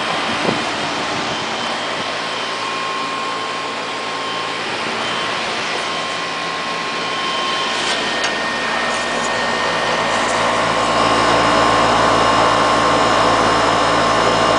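Carrier central air conditioner's outdoor condensing unit running: a steady rushing noise of the condenser fan with faint steady tones, getting slightly louder in the second half.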